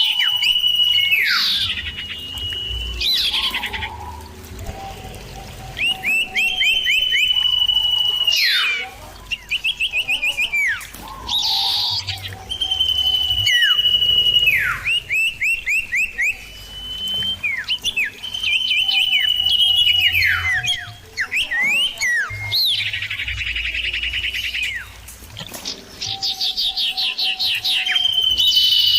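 Common iora (cipoh) singing loud and clear. Each phrase is a long, steady high whistle followed by a quick run of sharp falling notes, and the phrases repeat about every six seconds with rapid chirping trills between them.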